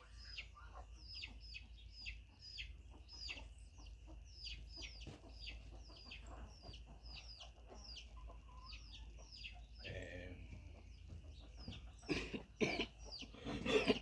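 Chickens calling: a steady run of high, falling peeps, about two to three a second, with louder clucks about ten seconds in and again near the end.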